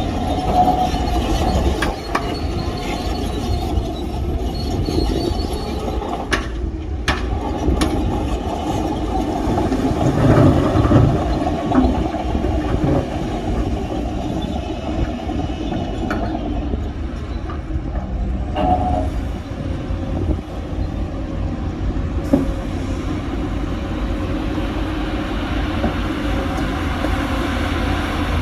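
Heavy earthmoving machinery running steadily, a continuous low rumble with a few short clanks, swelling louder about ten to eleven seconds in.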